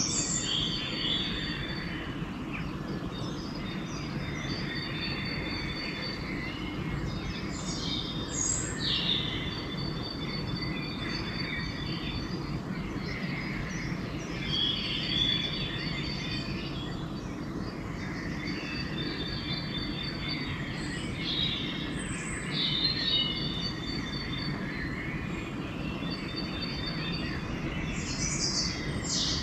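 Dawn chorus of several songbirds singing and calling over one another, with short sweeping phrases and rapid trills of repeated high notes, over a steady low rumble.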